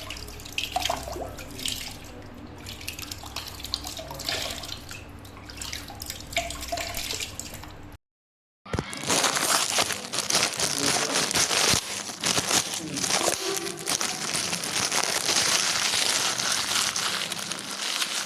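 Water splashing and running, with small clicks and crinkles from toys and plastic bags being handled in it. It cuts out briefly about eight seconds in, and the water is louder and hissier afterwards.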